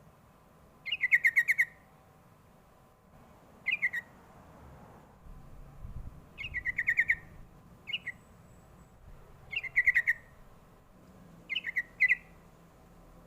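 Yellow-vented bulbul (trucuk) singing: short, quick runs of bubbling notes, each under a second long, repeated about seven times with pauses of a second or two.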